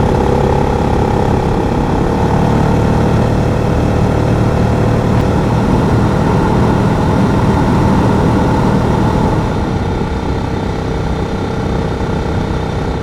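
Adventure motorcycle engine running at a steady cruise, with wind rush over the microphone; the engine note eases slightly about three quarters of the way through.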